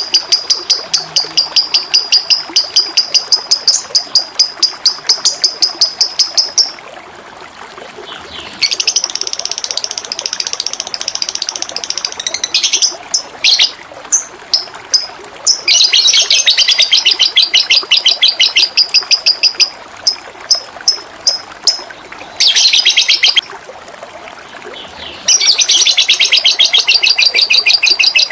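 A songbird singing long runs of rapid, evenly repeated high notes, broken by short pauses and a few stuttered notes, over steady running water.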